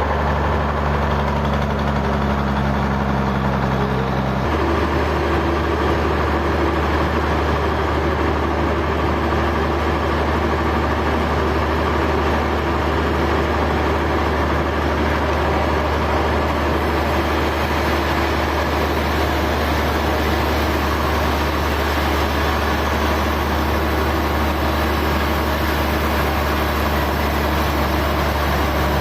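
Sawmill machinery running steadily, a loud engine-like drone with a low hum. Its tone shifts once about four and a half seconds in, then stays steady.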